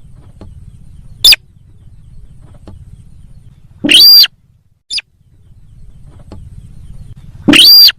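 Sintar sawah (rice-field rail) lure call played back loud enough to reach full scale: sharp, high calls rising and falling in pitch. There is a short one about a second in, a longer one around four seconds with a brief chirp just after it, and another long one near the end, all over a steady low hum.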